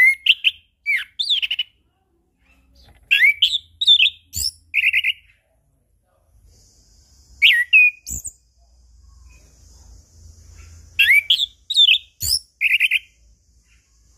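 Orange-headed thrush singing loud short phrases of quick rising and falling whistled notes, four phrases a few seconds apart, two ending in a rapid buzzy trill.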